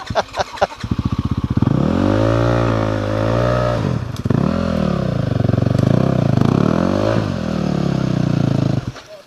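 Dirt bike engine revving, its pitch rising and falling several times, starting about a second in and stopping just before the end.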